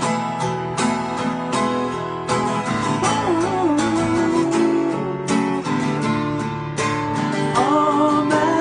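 Acoustic guitar strumming chords in a steady rhythm, with a held, wavering melody note over it from about three seconds in.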